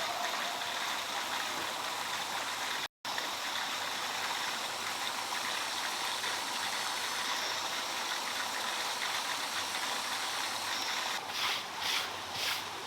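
Steady rush of running water, broken by a brief dropout about three seconds in. Near the end, a short run of sharp strokes, about two a second, sounds over it.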